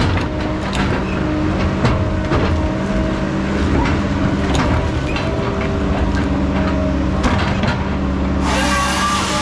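Heavy logging equipment's engine running steadily, with scattered knocks and clatters. About eight and a half seconds in, the sound changes abruptly.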